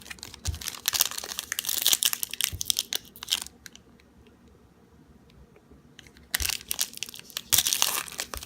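Wrapper of a football trading card pack crinkling as it is torn open by hand, in two spells with a pause of a couple of seconds between them.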